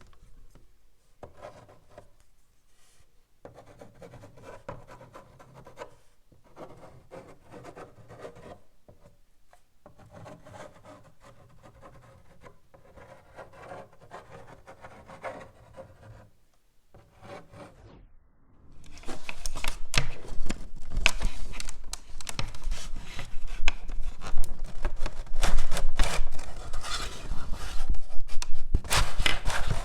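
Chalk writing on a blackboard: short scratchy strokes with brief pauses between them. About two-thirds of the way in the scraping becomes much louder and denser, with many sharp taps.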